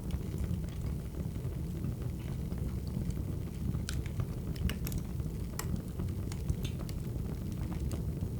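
Wood fire crackling: a steady low roar of burning logs with sharp pops and snaps scattered irregularly through it.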